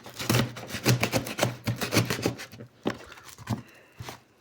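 Cardboard packaging being scraped and rubbed by hand as a parcel is worked open: a quick run of rasping strokes for about two and a half seconds, then a few scattered knocks and softer rustling.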